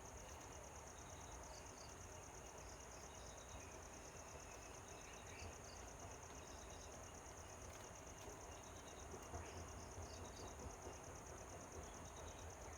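Faint insect chorus: a steady, fast, evenly pulsing high trill, with small groups of short chirps every second or two.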